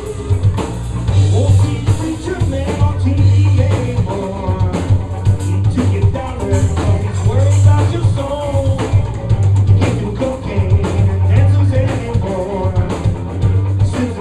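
Live blues band playing, with a drum kit keeping a steady beat.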